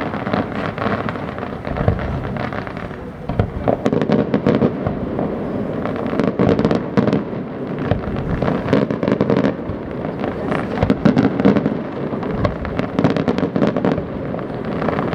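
Fireworks display going off without a break: a steady rumble of bursting shells, with many sharp cracks and crackles on top.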